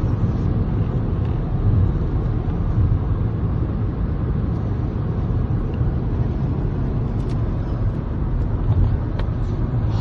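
Steady low rumble of road and engine noise inside a moving car's cabin, travelling fast on the highway.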